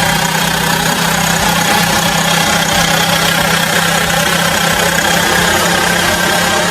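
The restored 3000 W generator set's small engine running steadily at a constant speed.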